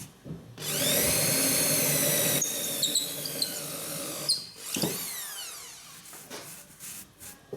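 Electric drill with a large bit boring into an aerated concrete block. It spins up with a rising whine, runs for about four seconds, then winds down with a falling whine. A few light clicks follow.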